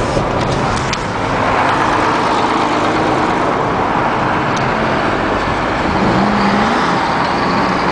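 Car driving on a snowy road: steady engine and tyre noise, with a brief rise in engine pitch about six seconds in.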